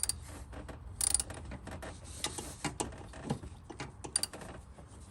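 Ratchet wrench clicking in short quick runs, with scattered metal clicks and a brief scrape, as a new spark plug is turned snug in the engine.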